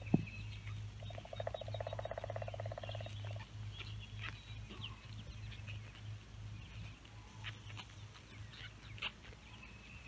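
Songbirds chirping in short calls throughout, over a steady low hum. About a second in, a long buzzing trill sounds for roughly two seconds.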